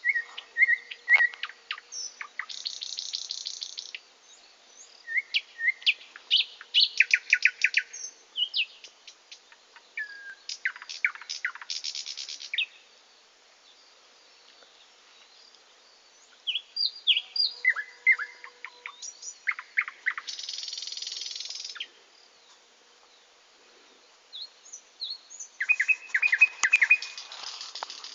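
Songbirds singing: phrases of a few seconds, each made of quick chirps and whistled notes, several ending in a buzzy rattle, with brief pauses between phrases.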